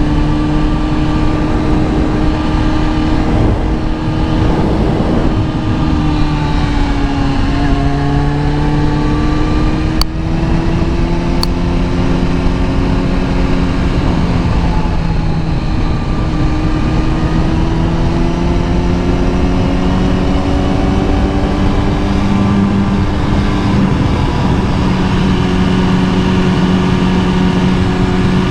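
Kawasaki ZX-10R inline-four engine running under way at fairly steady revs, its pitch rising and falling gently, over a steady rushing noise. Two sharp clicks come about ten and eleven and a half seconds in.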